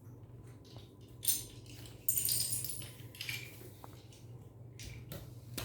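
Small hard toy pieces clattering and rattling as they are handled, with a short clatter just over a second in and a longer, louder rattle about two seconds in.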